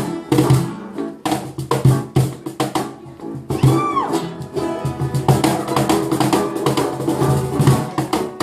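Live jam session: guitar and drums playing together with a steady beat, and a short swooping note about halfway through.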